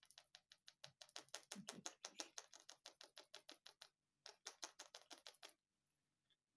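Quick, even dabbing of a paintbrush loaded with paint onto the painting surface, about eight taps a second, stippling tree foliage. A run of about four seconds, a brief pause, then another short run before it stops.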